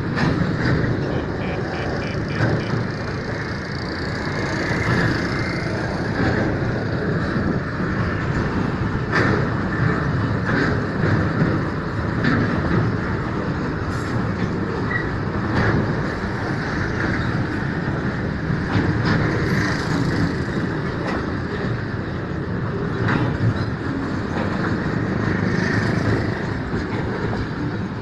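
Freight train of container flat wagons rolling past close below, a steady rumble of wheels on the track with sharp clicks now and then.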